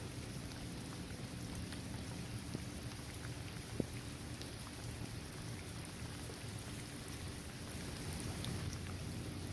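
Steady rain falling on a paved basketball court, trees and grass, with scattered drops ticking and one sharper drop just under four seconds in.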